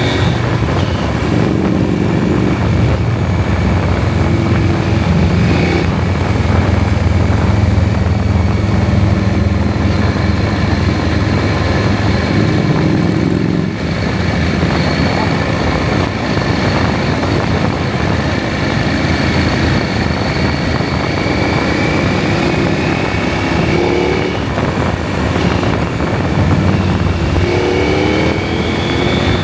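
KTM 790 Adventure's parallel-twin engine running under way, with rises in pitch near the end as it accelerates.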